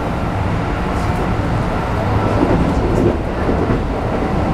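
Running noise inside a Keikyu New 1000 series electric train car of the 1890 subseries, which has a Toyo hybrid SiC VVVF inverter: a steady low rumble of wheels and motors on the rails.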